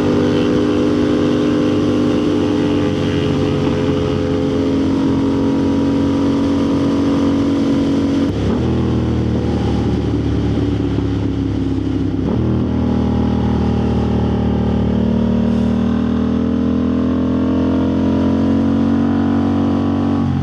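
Motorcycle engine running under way, its note holding steady, changing abruptly twice as the gear changes, then rising steadily as the bike accelerates.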